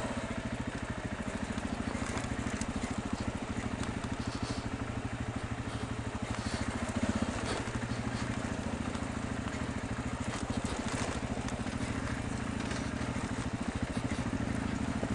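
Dirt bike engine running at low, steady revs, its rapid firing pulses even throughout.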